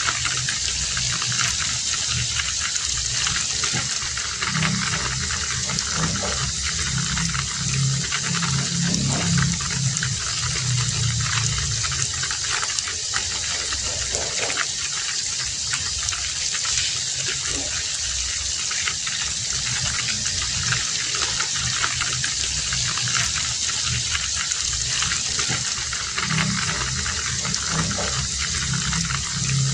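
Heavy rain falling steadily, a dense even hiss with an uneven lower splashing of water underneath.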